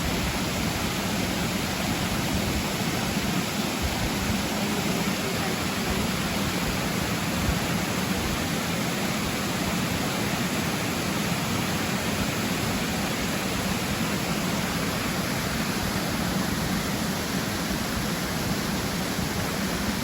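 Steady rushing of a river, an even wash of flowing water with no breaks.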